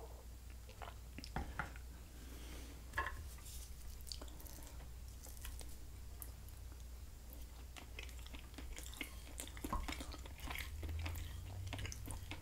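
Close-miked chewing and biting of turkey dinner food, with scattered soft mouth clicks and small utensil clicks, over a steady low hum.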